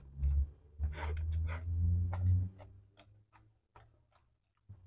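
Fried instant noodles slurped in and chewed close to the microphone: a quick run of wet smacks and clicks over the first half, thinning out to a few faint ticks later on.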